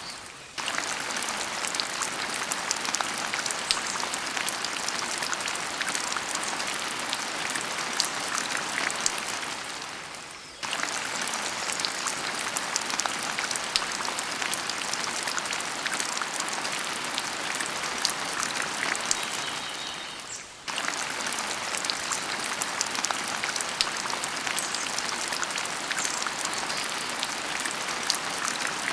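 A steady rain-like patter: a dense hiss full of small ticks. It fades out and starts again abruptly twice, about every ten seconds.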